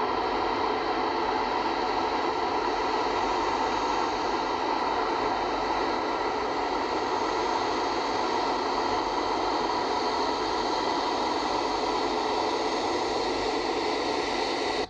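Jet airliner engines running, a steady rushing noise with several high, constant whining tones over it.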